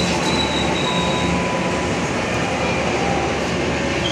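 Passenger train coaches rolling slowly past close by: a steady rumble of steel wheels on the rails. A faint thin high squeal fades out about a second in.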